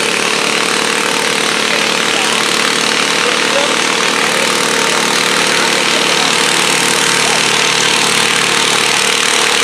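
Garden tractor engine running loud and steady at a tractor pull, holding one even pitch.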